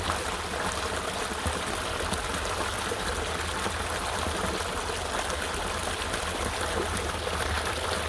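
River water flowing over rocks: a steady rushing and trickling.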